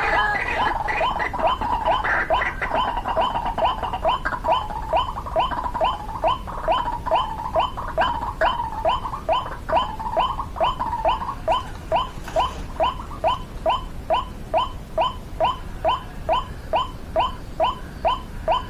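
White-breasted waterhen calling: a long, steady series of short, sharply rising notes, a little over two a second, more crowded and overlapping in the first half and evenly spaced after.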